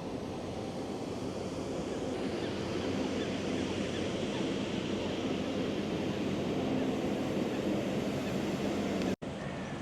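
Steady rushing outdoor city ambience, swelling slightly midway, with a split-second audio dropout near the end.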